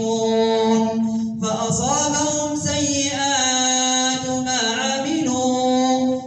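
An imam's melodic Quran recitation in the taraweeh prayer: one voice chanting in long drawn-out notes, sliding between pitches.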